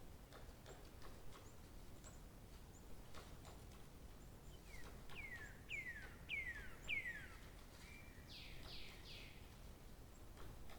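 Wild bird song: a series of four clear whistled notes, each sliding down in pitch, about halfway through, then a short steady note and three quicker falling notes near the end. Faint scattered clicks and low background noise run underneath.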